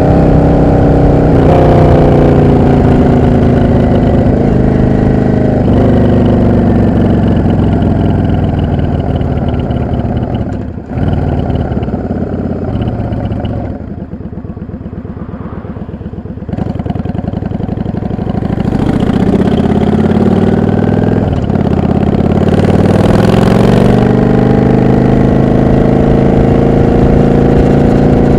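Yamaha XVS 650 V-twin motorcycle engine heard from the rider's seat, pulling through the gears with rising and breaking pitch at each shift. About halfway through it slows, drops off suddenly and runs low and steady for a few seconds. Then it accelerates again through more upshifts and settles into steady cruising.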